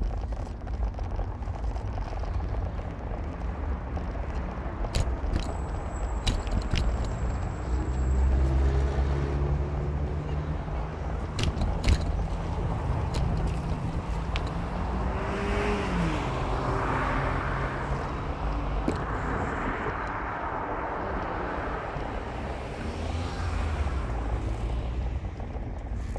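Car engine running while driving, with road noise. The engine note rises and then drops about sixteen seconds in, as in a gear change, and a louder rush of tyre noise follows. A few sharp clicks come in the first half.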